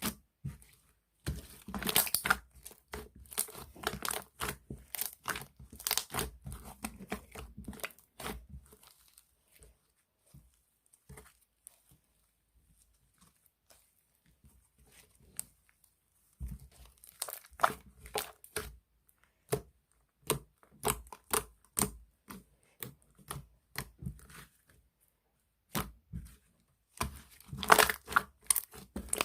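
Slime being squeezed and pressed by hands, making quick runs of sharp crackling pops and clicks. The crackling stops for several seconds in the middle, then starts up again.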